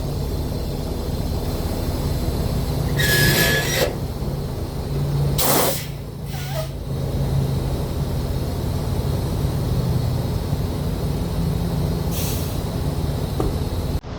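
Semi-truck diesel engine running steadily, heard from inside the cab. Short bursts of hissing come about three seconds in and again a little over five seconds in, with a fainter one near the end.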